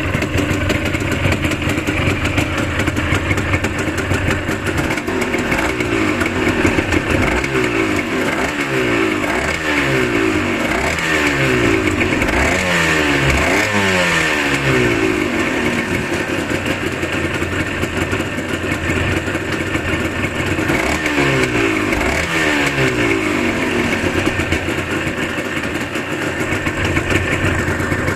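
Suzuki RGV250 Gamma (VJ21) two-stroke V-twin running just after starting. Through the middle the throttle is blipped again and again, each time the revs rising sharply and sliding back down toward idle.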